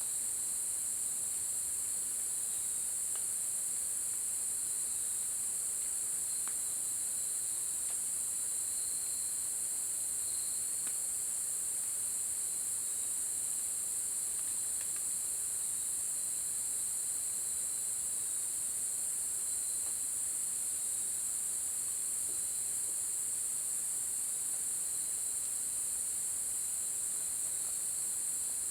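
A steady, high-pitched chorus of night insects, with a second, lower insect trill pulsing on and off, and a few faint ticks.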